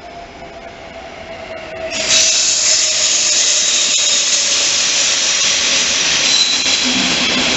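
An electric locomotive hauling double-deck coaches runs into the platform. A rumble grows louder, with a faint whine falling in pitch, and about two seconds in it becomes a loud, steady rush of wheels and air as the locomotive passes close by. A high squeal comes in near the end.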